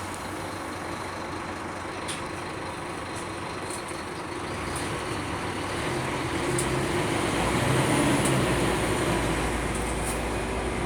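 Scania K310UB bus heard from inside the cabin: steady engine and road noise with a few light rattles, the engine growing louder from about halfway through.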